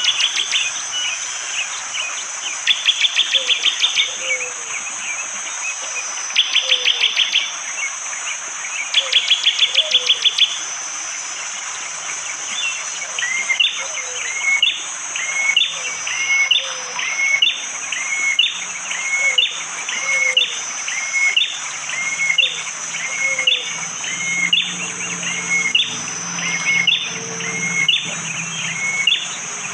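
Prenjak jali singing: three short, rapid stuttering trills in the first ten seconds, then a long, regular series of short rising notes, about one and a half a second. A steady high-pitched insect buzz runs underneath, and a lower hum joins near the end.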